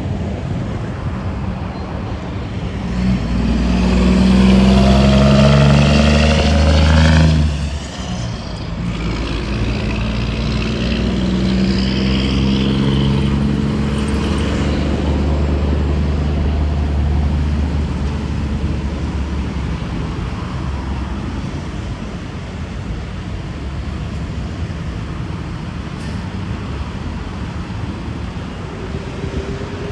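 Expressway traffic with heavy trucks going by: a loud truck passes about three seconds in with a deep engine note and tyre whine, then cuts off abruptly. A second truck passes with its engine audible, and steady traffic noise follows.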